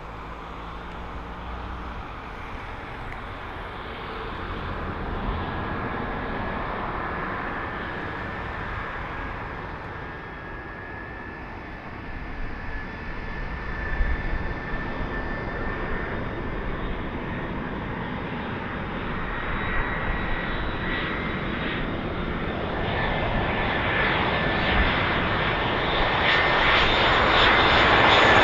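Aircraft engines running, the noise growing steadily louder, with a high steady whine over the rumble.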